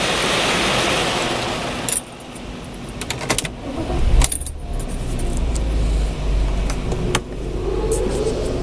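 Mark VII ChoiceWash XT automatic car wash heard from inside the car: a steady swishing wash for about two seconds, then quieter, with scattered sharp taps and clicks on the car and a low rumble from about four seconds in.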